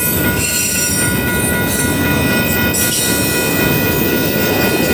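Union Pacific double-stack intermodal freight train passing close by: steady rumble and rattle of wheels on rail and well cars, with a constant high-pitched squeal from the wheels running over it.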